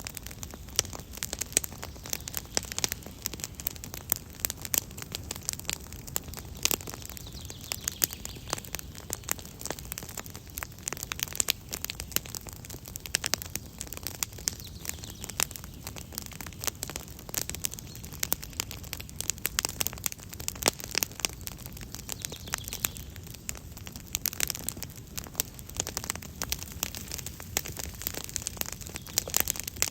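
Wood campfire crackling, with many irregular sharp pops and snaps over a low steady rush of the flames.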